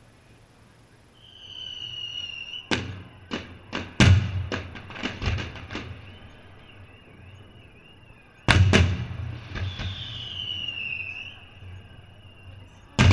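Fireworks exploding: a quick string of sharp bangs and cracks, then two loud bangs about halfway through and another near the end. High whistling tones sound between the bursts, one of them falling in pitch.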